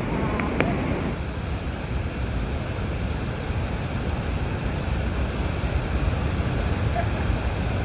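Steady roar of a large waterfall at Niagara Falls, a dense, even rush of falling water heaviest in the low end.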